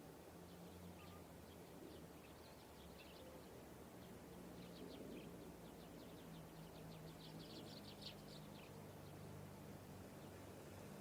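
Near silence with faint bird chirps: quick runs of short high notes, busiest from about the middle to two-thirds of the way through, over a low steady hum.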